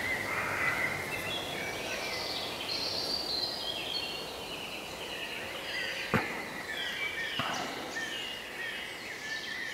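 Birds chirping and singing: many short, high whistled notes overlapping over a low background hiss. There is a sharp click about six seconds in and a fainter one about a second later.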